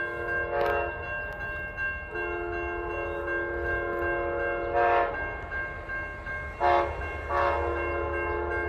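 Amtrak passenger locomotive horn sounding a held chord for the grade crossings, swelling louder several times, over the low rumble of the passing train.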